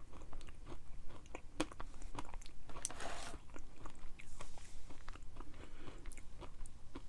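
Close-up chewing and crunching of a granola cup topped with chopped almonds: many short, irregular crunches as it is bitten and chewed, with a short hiss about three seconds in.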